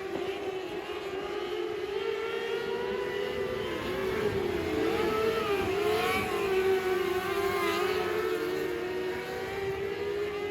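Several race car engines running together at speed, their pitches rising and falling against one another as they go round the track. The sound is loudest and most crowded about halfway through.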